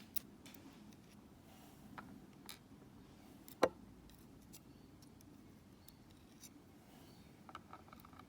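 Scattered light clicks and taps of small metal padlock parts and tools being handled while the lock is taken apart, the sharpest about three and a half seconds in and a few quick ones near the end.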